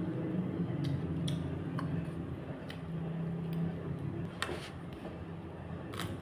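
Eating sounds: a few scattered clicks and light taps, as of chewing or a utensil on a plate, over a steady low hum.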